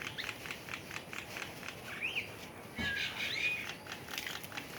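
Birds calling: a quick run of clicks, with short whistled notes that rise and fall about two seconds in and again around three seconds in.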